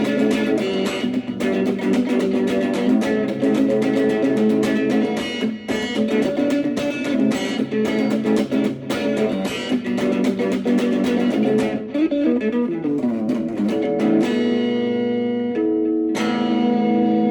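Instrumental music led by fast plucked guitar notes. About twelve seconds in the picking gives way to a falling run and then a few long, ringing chords.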